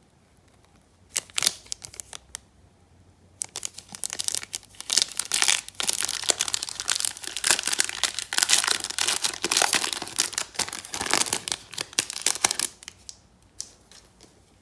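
Plastic wrapping crinkling and tearing as a trading-card pack or box is opened by hand. A few short crackles come first, then a long stretch of dense crinkling that dies away near the end.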